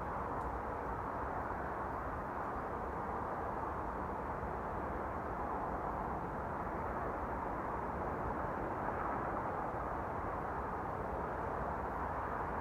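A loud, steady mechanical drone from overhead, a rushing noise with no clear pitch that slowly swells and eases; the unexplained sound the recorder calls demonic and mechanical.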